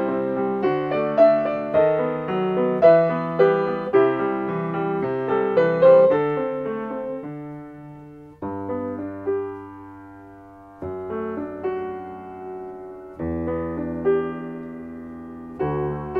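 Solo piano playing a choral accompaniment with no singing: a flowing passage of quick notes that thins out about seven seconds in to a few chords, each left to ring and fade, before the notes pick up again near the end.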